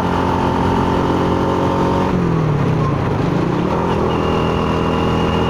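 Honda Astrea motorcycle's single-cylinder four-stroke engine running on the move. About two seconds in its pitch drops, then climbs again a second later, as the throttle is eased off and reopened.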